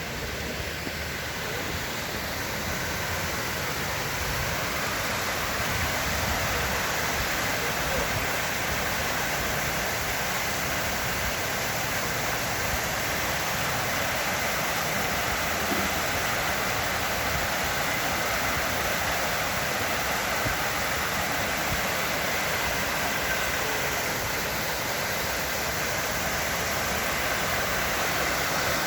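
Steady rushing noise with a faint high whine.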